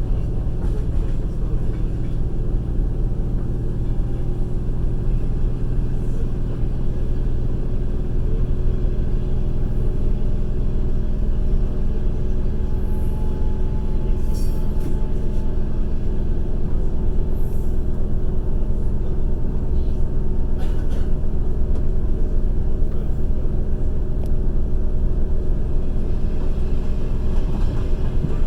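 Passenger train in motion, heard from inside the carriage: a steady low rumble of wheels on rails, with a few short clicks around the middle.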